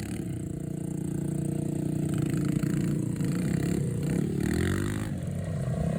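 Small pit bike engines running as the bikes race, getting louder over the first couple of seconds. About four seconds in, one engine's pitch falls away.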